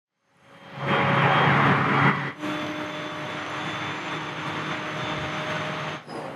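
Local train running, heard from inside the carriage: a steady rumble of the moving train with a few held humming tones, fading in from silence at the start and louder for the first second or so.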